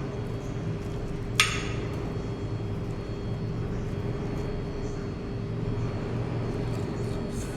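Steady low background rumble with a faint hum, and one sharp ringing clink of tableware about a second and a half in.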